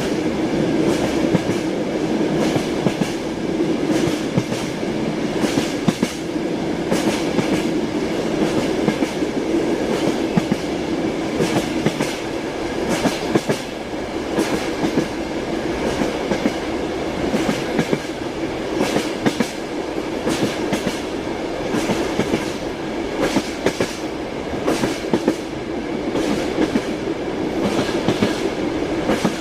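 Passenger train carriage running along the track, heard from inside a compartment: a steady rumble with frequent sharp clicks and knocks from the wheels over the rails.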